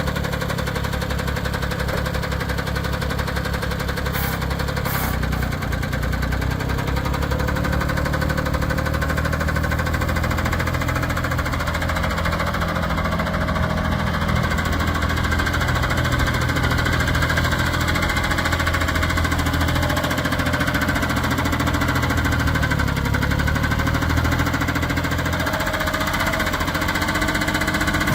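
Small diesel engine of a Case IH 1120 19 HP garden tractor running steadily, its speed shifting slightly a few times.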